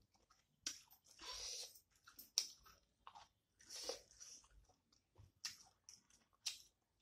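Faint close-up chewing of chicken curry eaten by hand: wet, open-mouthed mouth sounds with some crunching, in short irregular bursts.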